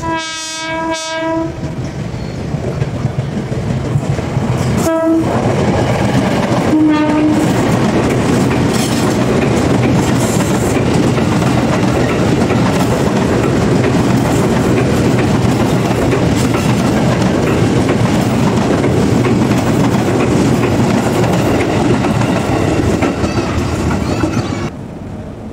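KRL commuter electric train horn sounding one held blast, then two short toots a few seconds later. A commuter electric train then passes close by with a loud, steady rumble of wheels on the rails, which cuts off abruptly near the end.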